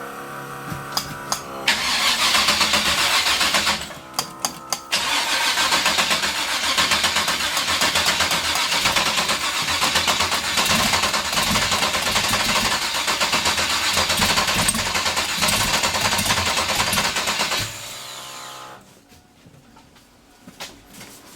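Freshly swapped 383 stroker V8 cranked on the starter for about a second and a half, then firing and running loud and hard; it stumbles briefly about four seconds in, catches again and runs until it is shut off near the end, winding down. This is its first start, with a lot of mechanical noise from the front of the engine that the owner traces to its gear-drive timing set.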